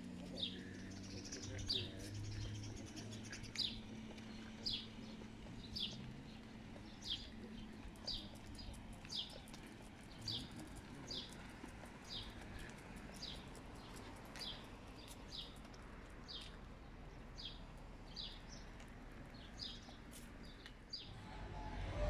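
A bird calling over and over, faintly: short, high, downward-sweeping chirps at a steady pace of about one a second.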